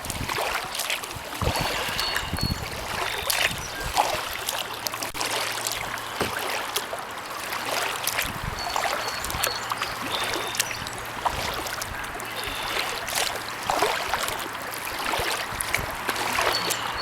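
Kayak paddle strokes dipping into calm pond water, with water trickling and dripping off the blades between strokes. A few short, high chirps are heard now and then.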